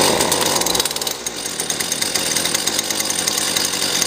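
Small two-stroke string trimmer engine catching on a pull-start right at the start and then running fast and steady: a cold start after a few days unused, with the choke applied.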